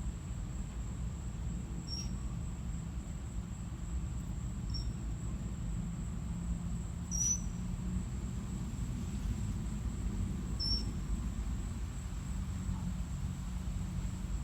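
Four short, high bird chirps spaced a few seconds apart, over a steady low outdoor rumble and a constant thin high whine.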